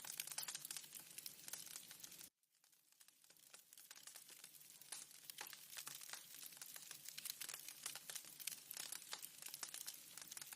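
Wood fire crackling in a fireplace, a dense run of small irregular crackles. About two seconds in the sound cuts out suddenly, then fades back up to the same crackling.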